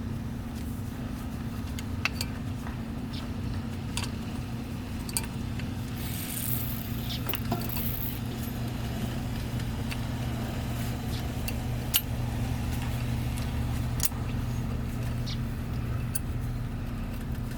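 Light metallic clicks and taps as brake pads and their clips are handled and fitted into a car's rear brake caliper bracket, over a steady low hum. A brief hiss comes about six seconds in.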